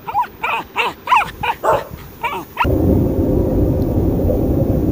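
A dog barking, about eight short high barks in quick succession. Near the middle it cuts off abruptly into a steady low rumbling noise.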